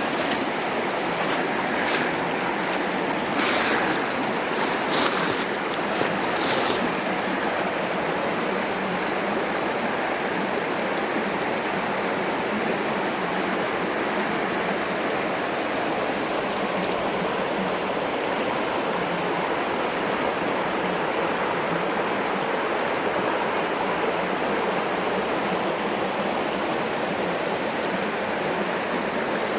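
Steady rush of flowing river water, with a few short sharp sounds in the first several seconds.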